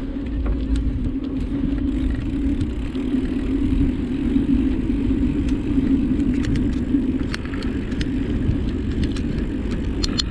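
Motorbike engine running at a steady speed while riding, with a low wind rumble on the microphone and occasional light rattles.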